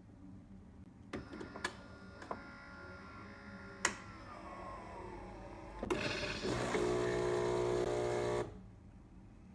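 Philips 3200 Series automatic espresso machine working: a few clicks and knocks, a whine that falls in pitch, then a steady buzz for about two seconds that cuts off abruptly.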